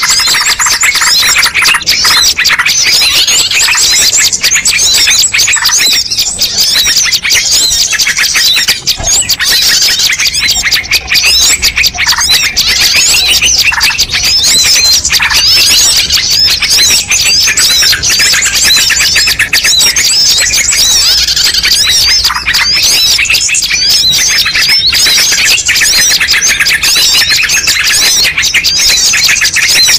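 Dense chorus of many small songbirds chirping and squawking at once, their quick calls overlapping without a break: a bird-lure recording that mixes the calls of many species to draw wild birds in.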